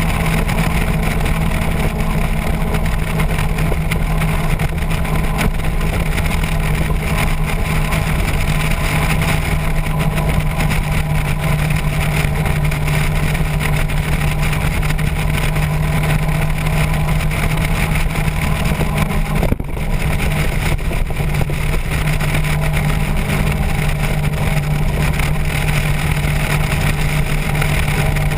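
Motorcycle engine running at a steady cruising pitch under a constant rush of wind and road noise, with a brief drop in sound about two-thirds of the way through.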